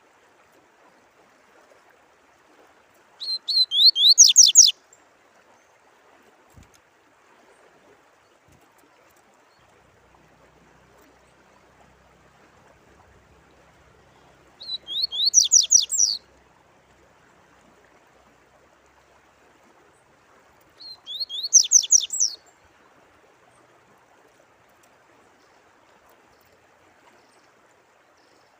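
A songbird sings three short, fast phrases of rapid sweeping whistled notes, spaced several seconds apart, over a faint steady sound of running water.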